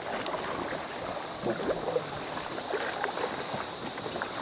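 Water lapping and trickling around a sea canoe as it is paddled, with a few small splashes.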